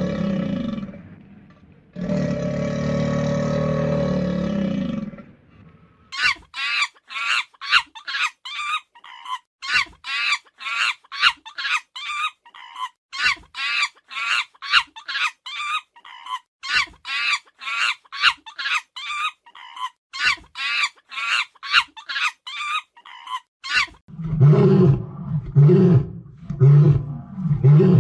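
Animal calls edited one after another. First come two long, loud, low calls, then a long run of short, higher calls repeated about twice a second, and near the end a string of deep, low roars.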